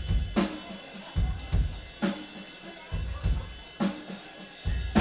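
Live band's drum kit playing a slow beat, a snare hit about every second and a half to two seconds with kick drum between, over deep sustained bass notes, as the song starts.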